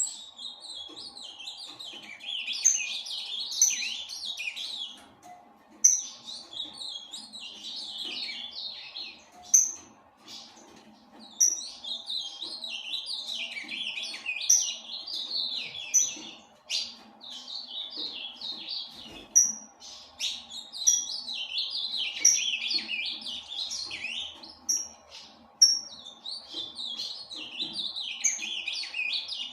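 Male ultramarine grosbeak (azulão) singing: warbling phrases a few seconds long, repeated one after another with short pauses between them. A faint steady hum runs underneath.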